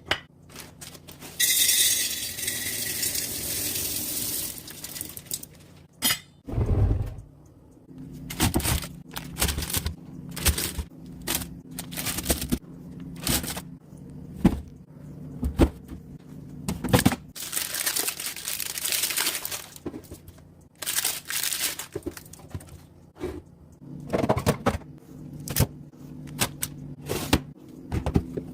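Food and drinks being restocked into a fridge: many knocks and clinks of glass, cans and containers being handled and set down, with a steady hissing rush from about two to five seconds in.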